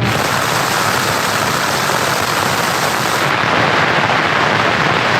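Heavy rain falling hard, a loud, dense, steady patter.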